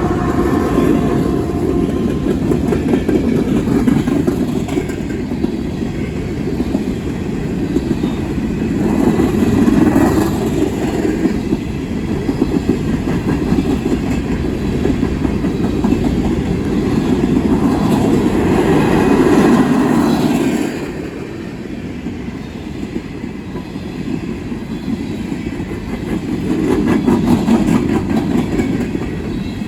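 Freight train of loaded coal cars rolling past, with wheels clattering over the rail and a heavy rumble that swells and ebbs as the cars go by. A fading tone dies away in the first two seconds.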